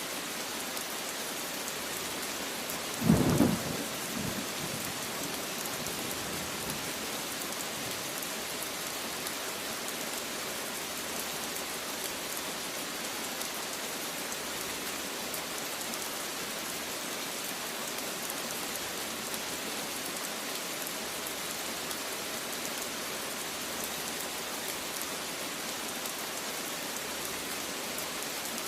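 Steady rain falling, an even hiss, with a single short clap of thunder about three seconds in that dies away within a second or two.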